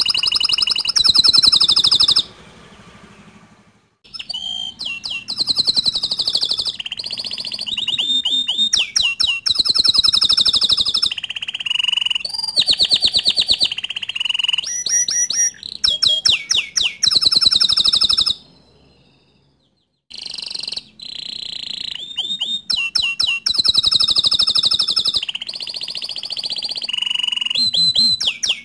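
Domestic canary singing long phrases of fast trills and rapidly repeated high notes. The song breaks off twice for about two seconds, first about two seconds in and again a little past the middle.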